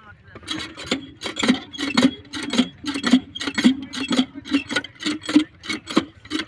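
Rhythmic rasping or scraping strokes, about three a second and slightly uneven.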